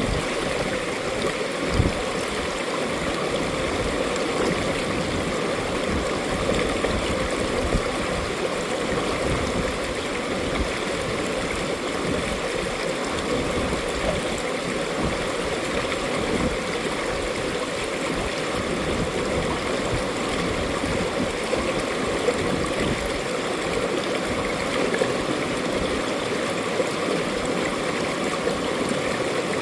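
Mountain valley stream flowing over rocks, a steady rush of water with gurgling and splashing.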